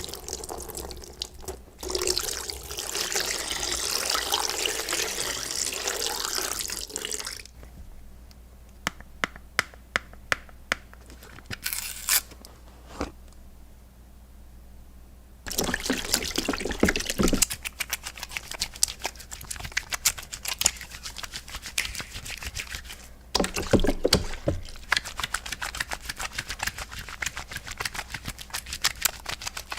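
Handwashing at a sink: tap water runs steadily for a few seconds, then wet hands rub and scrub, with sharp wet ticks in a quieter stretch and two longer bouts of dense splashing, scrubbing noise later on.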